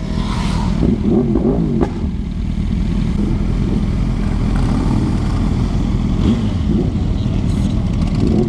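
Yamaha YZF R1's inline-four engine running steadily while the bike is ridden, with a few brief pitch swells about a second in.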